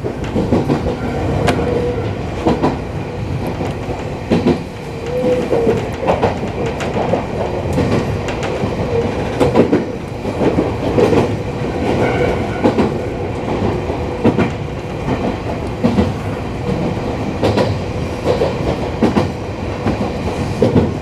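Iyo Railway electric commuter train running along the Yokogawara Line, heard from inside the front car: a steady rumble of running gear with wheels clicking over rail joints at irregular intervals and a faint steady hum.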